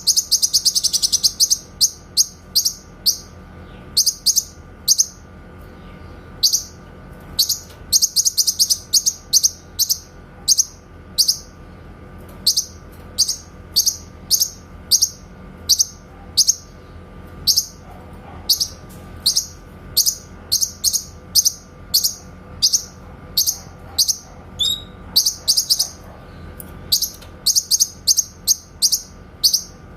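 Cucak kinoy singing in sharp, clear 'tembakan' (shot) notes: short, high, loud whistles repeated about once or twice a second, with a few fast rattling runs, one right at the start and another about eight seconds in. A faint steady hum lies underneath.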